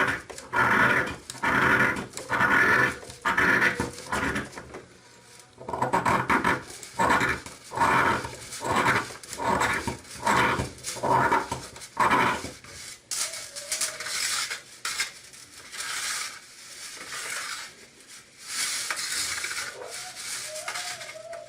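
A knife blade scraping shavings off a magnesium block in steady, rhythmic strokes, about two a second, with a short pause partway. Past the middle the scraping gives way to longer, hissier strokes.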